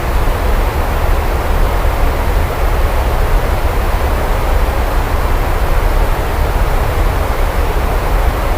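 Steady heavy rain, an even rushing hiss with a continuous deep low rumble underneath and no distinct thunderclap.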